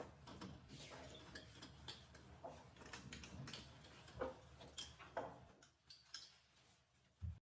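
Faint, irregular small clicks and knocks over a low background hum, cutting off to dead silence near the end.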